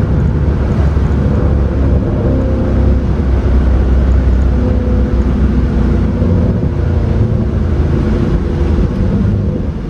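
Mercedes C63 AMG's 6.2-litre V8 running at a steady pitch, heard from inside the cabin with a loud low rumble of road and wind noise.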